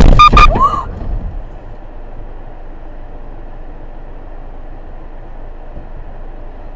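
A sudden loud bang with a brief horn-like tone and a short pitch glide. Steady road and engine noise of a moving car follows.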